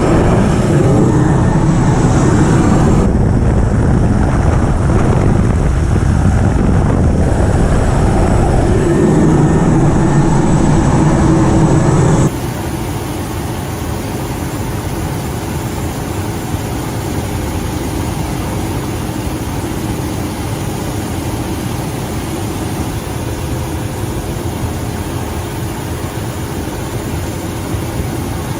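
Helicopter rotor noise mixed with wind, loud and steady. About twelve seconds in it cuts off suddenly to a quieter, steady rushing noise with a faint hum.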